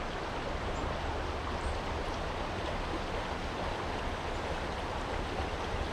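Small creek running over rocks: a steady rushing of flowing water.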